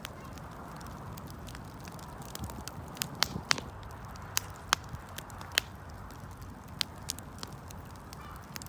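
Wood fire crackling: irregular sharp pops and snaps over a steady low hiss, busiest in the middle.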